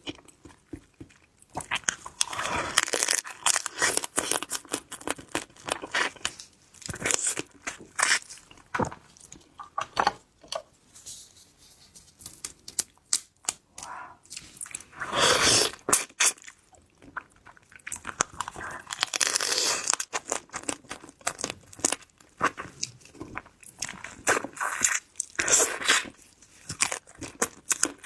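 Close-miked eating of a ginger-braised crab: shell cracking and tearing, with crunching and chewing, in irregular clusters of crackles and clicks separated by short pauses.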